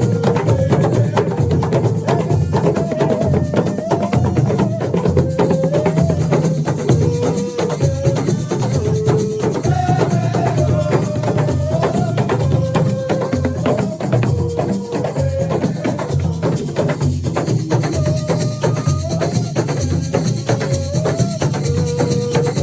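Live assiko music: drums and shakers play a dense, steady beat under a melody that moves in short held notes.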